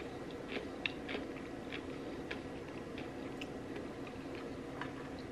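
Close-miked chewing: wet mouth clicks and small crunches, scattered irregularly and thinning out after about two and a half seconds, over a steady background hum.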